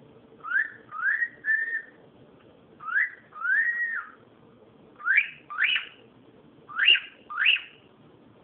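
Cockatiel whistling: nine short rising whistles in groups of two or three, the last few sweeping up higher and more steeply than the first.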